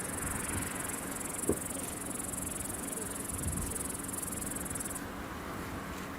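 High, steady chirring of insects that cuts off abruptly about five seconds in, over a faint low steady hum.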